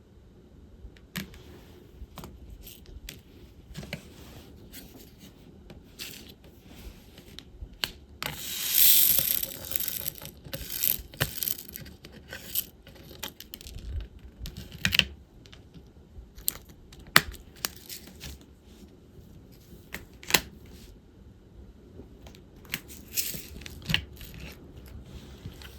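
Diamond painting handling sounds: small sharp clicks and taps of a drill pen picking up and pressing resin drills onto the canvas, with plastic tray and case handling. About a third of the way in there is a louder scratchy rustle lasting a couple of seconds.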